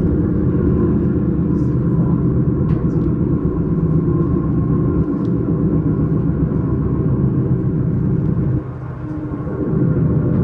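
S-Bahn train running, a steady low rumble that drops briefly for about a second near the end.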